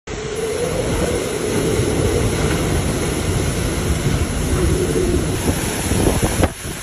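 Hurricane-force wind in a major hurricane's eyewall: a loud, steady roar with a wavering howl over a heavy low rumble. The roar drops off suddenly near the end.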